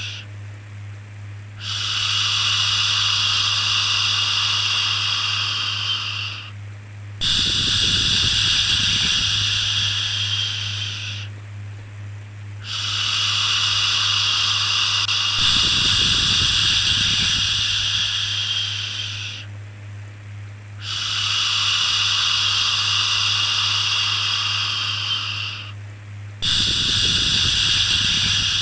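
A person's voice making long shushing 'shhh' sounds over and over, each shush lasting about four to seven seconds with a short breath-length pause between them, over a steady low hum.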